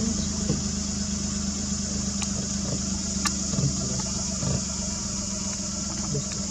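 Engine running at a steady idle, a low even hum, with two faint sharp ticks about two and three seconds in.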